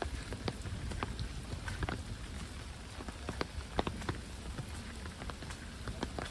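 Heavy rain pouring down steadily, with many individual drops ticking sharply and irregularly close by.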